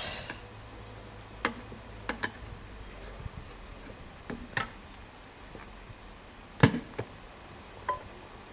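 Scattered sharp clicks and knocks, about nine over several seconds, the loudest about two thirds of the way through, over a low steady hum.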